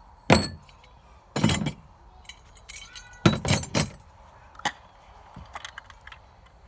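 Metal parts of a homemade aluminum kayak landing gear clanking and clinking as they are handled and pulled apart. There are several loud clanks, the biggest about a third of a second in, around a second and a half, and a cluster around three and a half seconds, with lighter clicks between.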